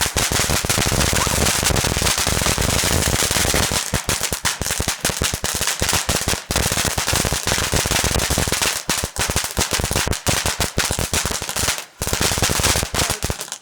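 A firework going off as a dense, rapid string of loud cracks and bangs with no let-up for about thirteen seconds, stopping suddenly near the end.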